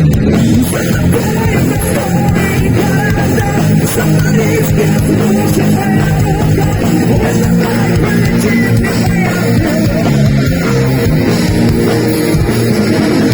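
Rock band playing heavy metal live, loud and without a break.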